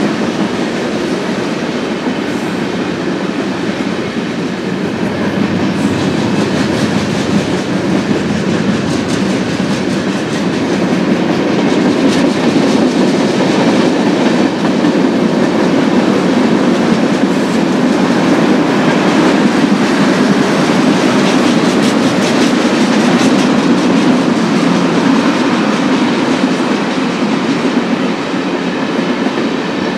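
Freight cars of a Union Pacific manifest train rolling steadily past close by, steel wheels clattering over the rail joints.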